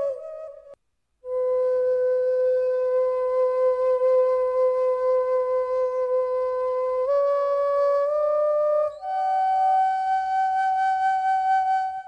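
Slow instrumental music: a single flute-like wind melody of long held notes. After a short break about a second in, a low note is held for several seconds, steps up twice, and moves to a higher note that is held to the end.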